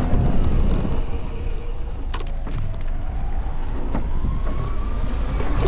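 Electric motorcycle riding in traffic: steady wind rumble on the microphone and road noise, with a faint motor whine that rises slowly in pitch over the second half as the bike speeds up. A sharp click about two seconds in.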